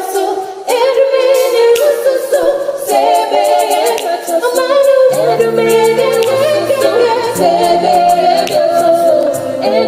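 A group of voices singing a cappella in harmony, with lower bass notes joining about five seconds in.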